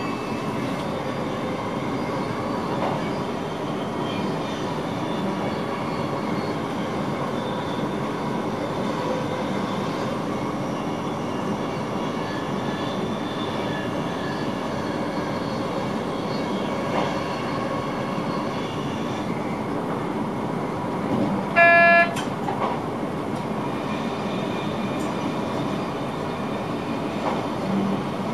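Steady running noise of an electric intercity train heard from inside the driver's cab at speed, wheels on rail with a faint motor whine. About three-quarters of the way through, the train's horn sounds once in a short blast, the loudest sound here.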